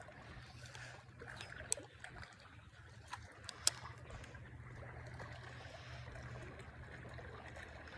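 Quiet lakeside ambience: faint water trickling and lapping over a steady low hum, broken by a few sharp clicks, the loudest nearly four seconds in.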